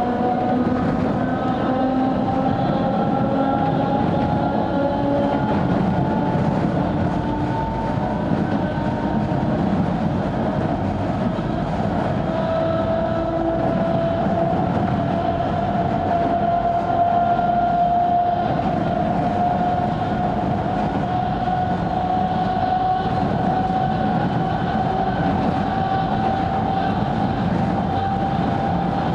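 Sangi Railway 270-series 762 mm narrow-gauge electric train running, heard from inside the car: steady wheel and rail rumble under a motor whine that climbs slowly in pitch as it gathers speed, with a fresh rising whine starting about halfway through.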